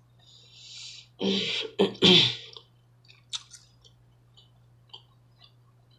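A person draws a quick breath and then coughs or clears her throat twice in short, loud bursts while eating, followed by a few faint mouth clicks from chewing.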